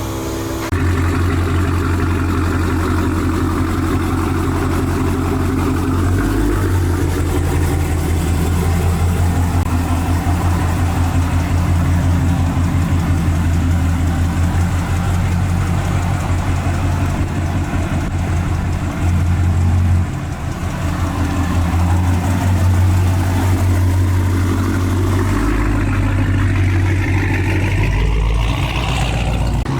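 Car engine running with a steady low drone, its pitch and level shifting a few times, as if idling and then being driven.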